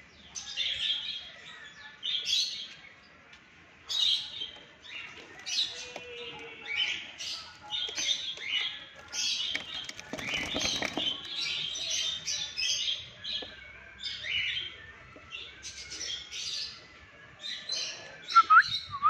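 Alexandrine parakeet chattering in a long run of short, repeated chirps, with a brief rustle about ten seconds in and a few sharp rising whistles near the end.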